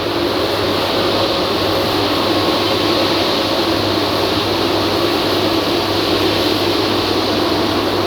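Wieland FS216 industrial vacuum cleaner's pump running steadily with a low hum, pressurising the collection drum to push coolant out through the return hose.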